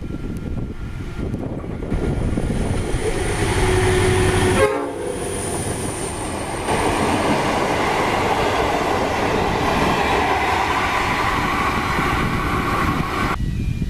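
An 81 class diesel-electric locomotive runs through at speed hauling stainless-steel passenger carriages, followed by the steady clatter and rush of the carriages' wheels on the rails. The sound breaks briefly about a third of the way in and drops away sharply near the end.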